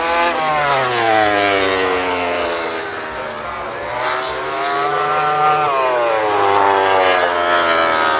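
Yamaha MotoGP bike's crossplane inline-four engine revving, its pitch climbing and falling slowly several times.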